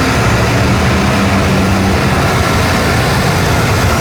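Steady rumble of road traffic at an intersection, with a vehicle engine's low, even hum.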